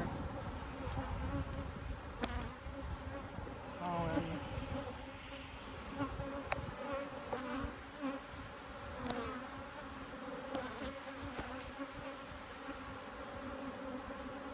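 Honeybees from an opened hive buzzing in a steady, many-toned hum, with a few light clicks.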